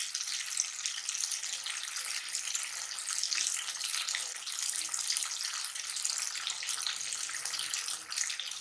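Beef karahi gravy sizzling and bubbling in oil in the wok: a steady, fine crackling hiss.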